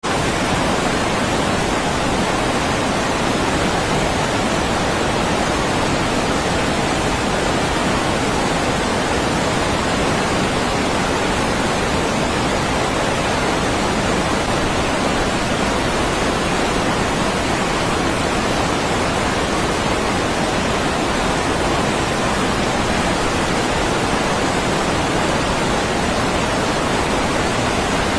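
Rushing river water, a steady even hiss that stays unchanged throughout.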